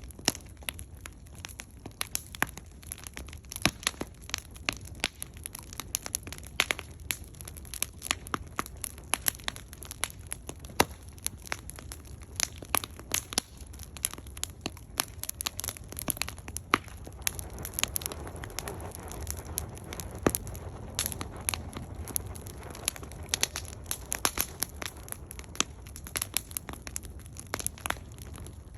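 Firewood burning in a campfire, crackling with many sharp irregular pops and snaps. A soft rush of flame swells for a few seconds about two-thirds of the way through.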